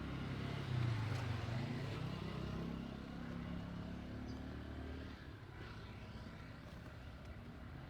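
Motor vehicle engine running close by, loudest about a second in, then fading away over the next few seconds.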